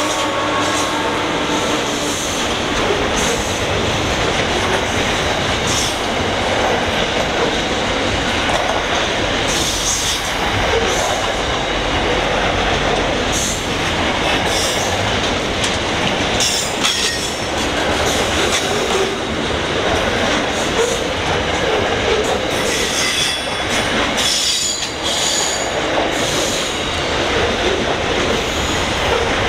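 Freight train wagons rolling past on curved track: a steady rumble of steel wheels on rail with clicks and clanks, and high wheel squeal that comes and goes, strongest in the last third. The drone of the trailing locomotive's engine fades out in the first second.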